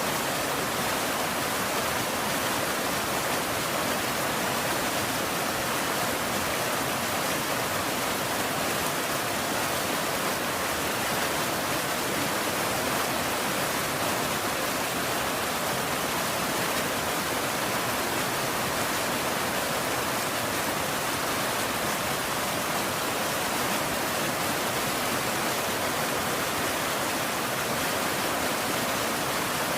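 Steady rain, an even unbroken hiss with no separate drops and no thunder.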